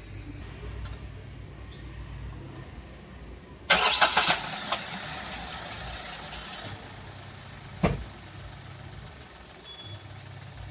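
Maruti Suzuki S-Presso's 1.0-litre three-cylinder petrol engine starting after a low steady hum: a sudden loud burst about four seconds in as it catches, then settling to an even idle, with one sharp knock about three-quarters of the way through. The air-intake hose clamp has just been tightened, and the engine idles without the abnormal noise that the loose clamp's air leak had caused.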